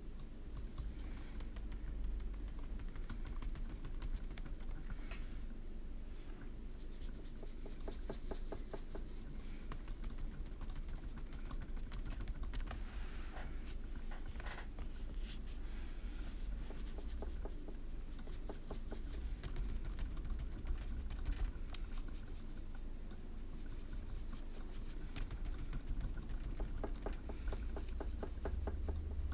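Colouring strokes on paper: a coloured pencil or crayon scratching back and forth in quick, even strokes, with a few louder scratches, over a steady low hum.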